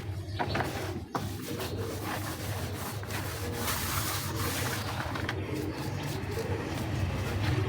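Dry set cement being crumbled: a continuous gritty rubbing and grinding with a few sharp cracks in the first couple of seconds.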